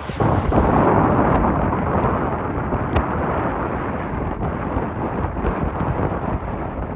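Strong gusting wind buffeting the microphone: a heavy, rumbling roar that jumps up in level just after the start and stays loud.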